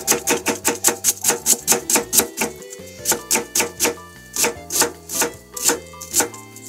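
Kitchen knife shredding cabbage on a plastic cutting board: quick, even cutting strokes, about six a second, slowing to about three a second about halfway through. Background music plays underneath.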